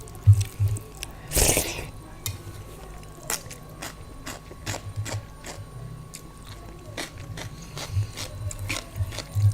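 Close-miked eating sounds of someone eating rice and daal: soft rhythmic chewing pulses at the start and again near the end, scattered small mouth clicks, and one brief louder noisy sound about a second and a half in.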